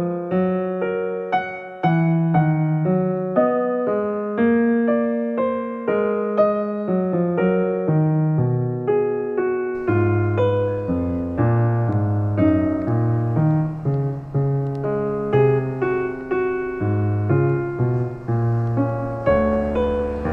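Calm, slow piano music, with a lower, fuller accompaniment coming in about halfway through.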